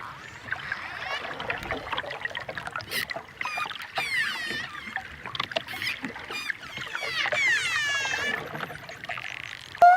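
Dolphins whistling and clicking underwater: a run of sharp clicks with several high whistles that sweep down in pitch, the loudest around the middle and near the end.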